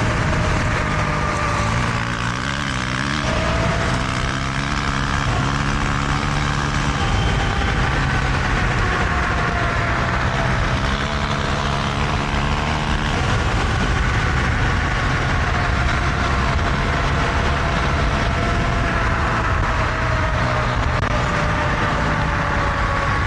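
Riding along on an electric bike: a thin motor whine slowly drifts up and down in pitch with speed over steady wind and riding noise. A dirt bike engine runs underneath, coming through more strongly at times.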